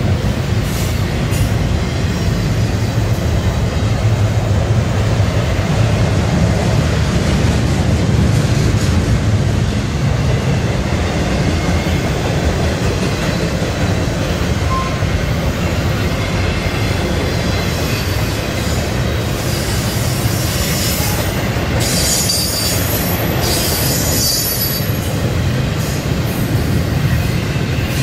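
Double-stack intermodal train's well cars rolling past, a steady loud rumble of wheels on rail. Bursts of high-pitched wheel squeal come in about two-thirds of the way through.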